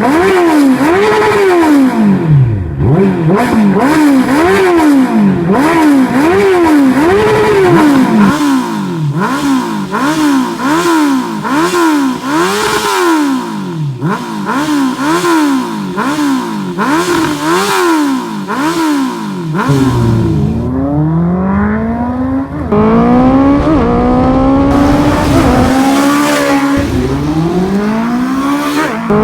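Honda CB650R inline-four engine breathing through an aftermarket full exhaust system, revved in quick throttle blips about once a second. In the last third the revs climb in longer, slower pulls.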